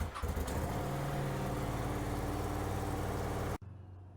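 Motorcycle engine idling steadily just after being started. It cuts off abruptly about three and a half seconds in, leaving a quieter steady hum.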